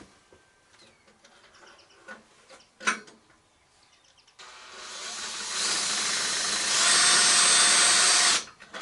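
A power tool starts about halfway in and builds to a loud, hissing whir. It runs steady with a high whine for a couple of seconds, then cuts off suddenly.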